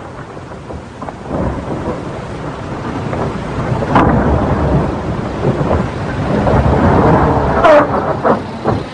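A 1930s sedan's engine rumbling as the car pulls away over a dirt road, the noise growing louder, with a sharp crack about four seconds in.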